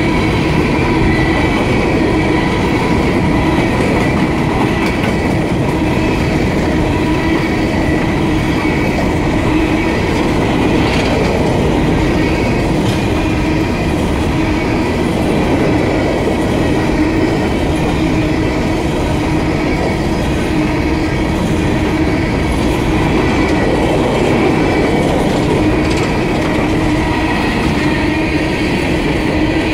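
Empty coal hopper cars of a freight train rolling past close by: a loud, steady rumble and clatter of steel wheels on the rail, with a steady ringing tone above it.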